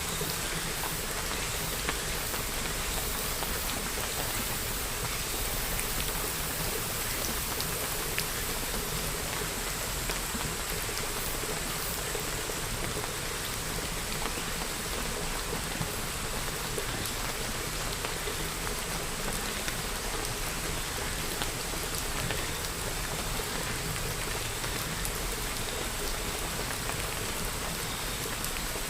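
Steady rain falling, an even hiss of drops with faint fine patters of individual drops striking a surface.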